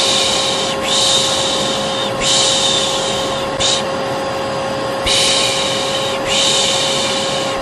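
A vacuum cleaner runs with a steady hum while a person's voice repeatedly shushes ('shh, shh') over it. There are five long shushes of about a second each and one short one, used as soothing white noise for a baby.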